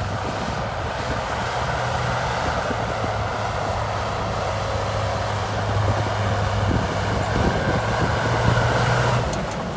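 Diesel engine of a heavy earthmoving machine running steadily with a low hum, easing off near the end.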